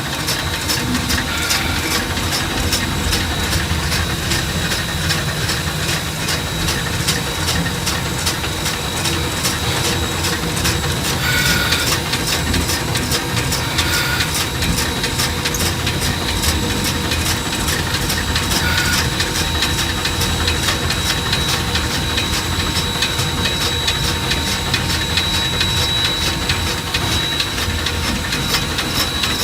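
Cab of Shay #15, a three-truck superheated geared steam locomotive, under way: a rapid, steady clatter of the running gear with a steady high whine and hiss. Brief squeals come a few times, about a second in, around 11 and 14 seconds, and near 19 seconds.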